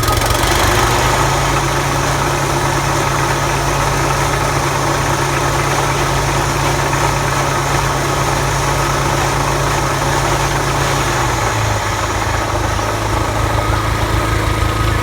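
Toro TimeMaster mower running with its blade deck engaged, the belts struggling to bring the blade spindles up to speed. Its low hum steps up in pitch about a second in and drops back near the end, with a loud rubbing noise from the deck, the sign of a part rubbing somewhere in the belts, pulley idlers or spindle bearings.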